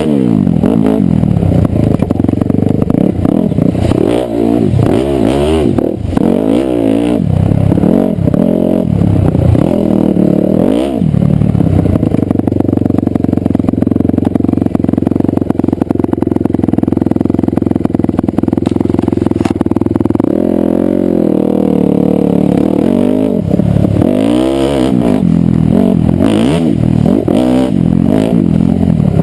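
Dirt bike engine being ridden, revving up and falling off again and again with the throttle, holding a steady higher pitch for several seconds midway before the rising and falling resumes.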